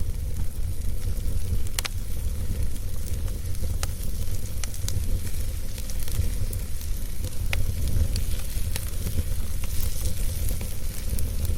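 Wood fire in a fireplace burning with a steady low rumble and hiss, and scattered crackles and pops, a few of them louder.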